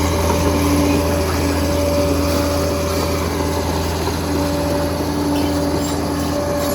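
Liebherr PR 746 bulldozer's diesel engine running steadily under work, a constant low drone with a steady whine over it.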